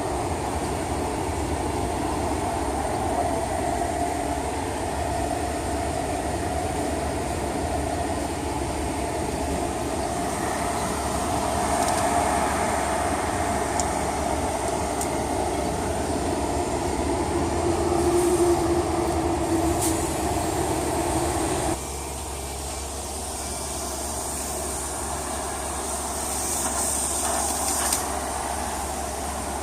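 Steady machine noise with a hiss, which drops abruptly in level about 22 seconds in.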